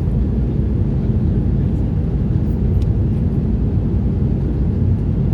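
Steady low roar of a Turkish Airlines Airbus A330-300's engines and airflow, heard from inside the passenger cabin.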